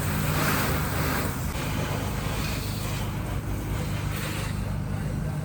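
Water spraying from a garden hose trigger nozzle onto a car, a steady hiss that eases off about four and a half seconds in, over a steady low hum.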